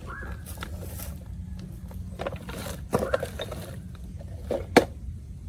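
Scraping and handling noises with several clicks, the sharpest near the end, over a steady low hum.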